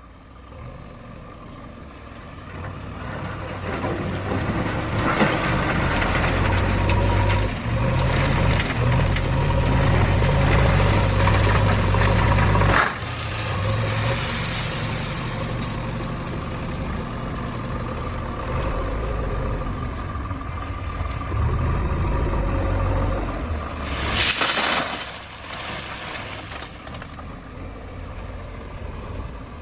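Heavy diesel engine working under load, building up over the first few seconds. It drops back abruptly about halfway through and then runs steady. A brief harsh, noisy burst comes about four-fifths of the way through.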